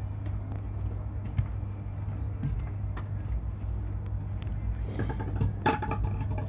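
Steady low rumble inside an Indian railway passenger coach, with scattered light clicks and knocks; near the end a brief, louder pitched sound joins it.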